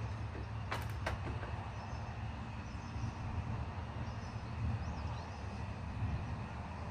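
Distant thunder rumbling low and steadily under a soft hiss of rain, with two sharp clicks about a second in.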